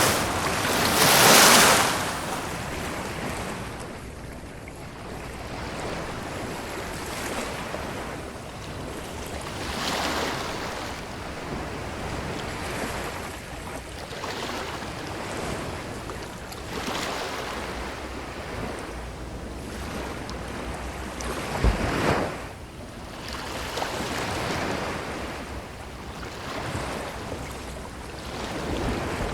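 Ocean waves breaking and washing up a beach, swelling and fading in repeated rushes. The loudest wash comes about a second in, softer ones follow every several seconds, and there is a brief sharp thump of surf about 22 seconds in.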